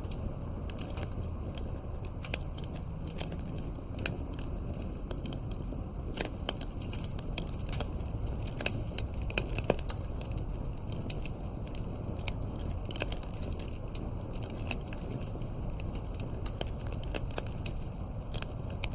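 Wood campfire burning, crackling with many irregular sharp pops over a low steady rumble.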